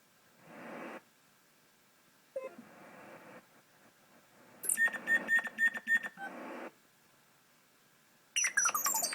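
General MIDI synthesizer wind and bird-tweet patches playing in short, separate notes. Blocks of synthetic wind hiss start and stop abruptly. About halfway through, a run of about six quick chirps comes in over the hiss, and near the end there is a cluster of chirps that fall in pitch.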